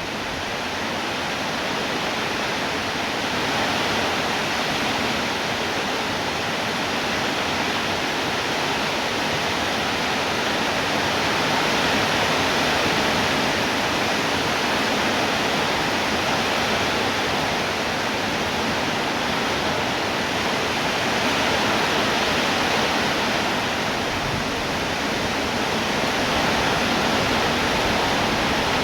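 Rain falling steadily: a dense, even hiss that swells slightly now and then.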